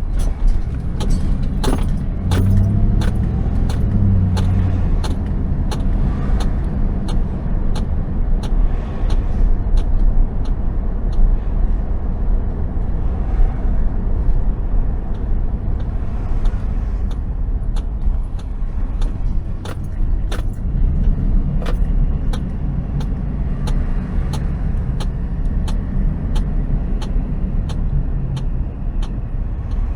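Car driving on city streets, heard from inside the cabin: a steady low road and engine rumble, with scattered sharp clicks and rattles throughout.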